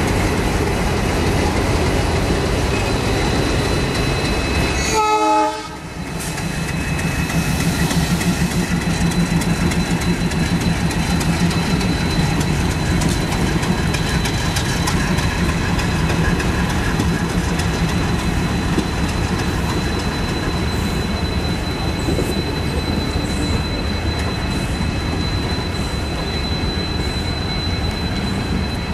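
A departing express train: the WDG3A locomotive's ALCo diesel engine runs as it passes, then, after a brief dip about five seconds in, the passenger coaches roll by with a clickety-clack of wheels over rail joints and a steady low hum.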